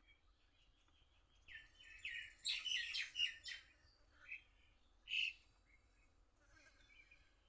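A bird calling: a quick run of short chirping notes about a second and a half in, followed by two single notes a little apart.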